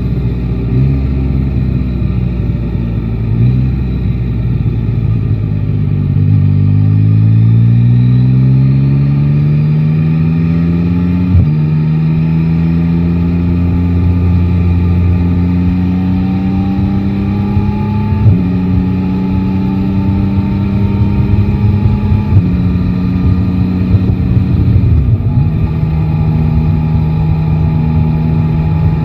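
Yamaha Tracer 9 GT motorcycle's three-cylinder engine heard from the rider's seat in city traffic. The engine note climbs steadily under acceleration to a gear change about eleven seconds in, then holds at a steady cruising pitch with a few small shifts.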